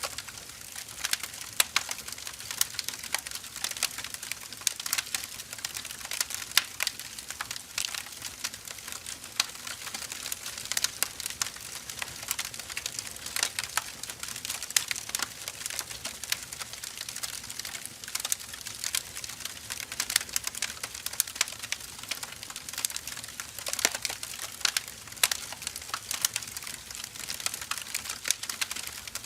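Burning firewood crackling and popping: dense, irregular snaps over a soft steady hiss of the fire.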